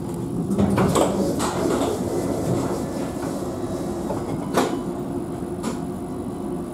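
Alstom Citadis tram running along the track, heard from on board: a steady hum with a few sharp knocks of the wheels over the track, three close together about a second in and two more later.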